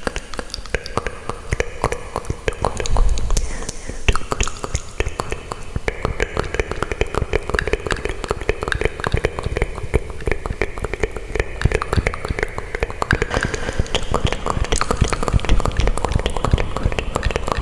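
Close-miked ASMR trigger sounds: a dense, continuous run of small clicks and crackles.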